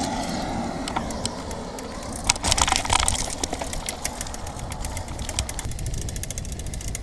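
Bicycle ride with wind buffeting the microphone as a steady low rumble. There is a burst of rattling about two and a half seconds in, then fast, even ticking through the second half.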